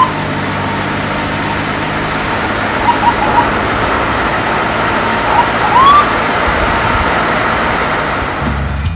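Steady road-traffic sound of cars driving, a loud even rush of noise, with a few short high squeaks a couple of times.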